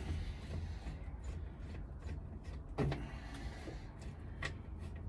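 Hand tools and metal parts being handled during repair work, over a low steady hum: a sharp knock about three seconds in and a lighter click about a second and a half later.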